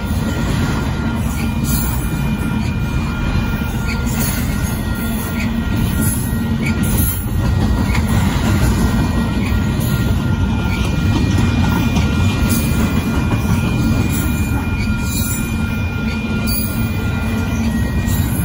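Intermodal freight train of double-stack container cars rolling past at close range: a steady, loud rumble of wheels on rail, with a thin, steady high squeal from the wheels and scattered short clacks.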